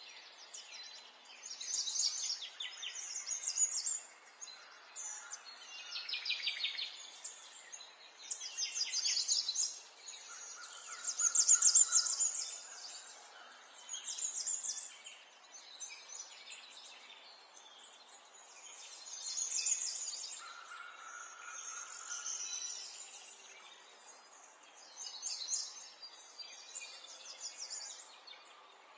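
Songbirds singing: short, high, rapidly trilled phrases one after another, every second or two, over a faint steady hiss.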